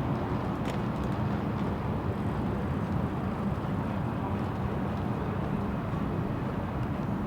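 City street ambience: a steady low rumble of distant traffic, with one faint short click just under a second in.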